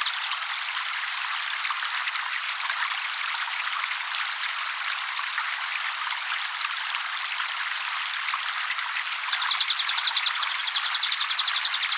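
Steady trickling water throughout. A cililin's song, a fast even trill of high chirps about eight a second, breaks off half a second in and starts again loudly about nine seconds in.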